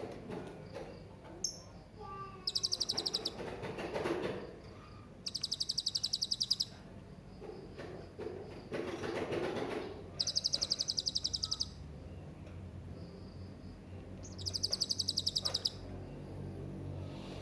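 Serindit (hanging parrot) calling: four bursts of rapid, high-pitched trilling, each about a second long, a few seconds apart.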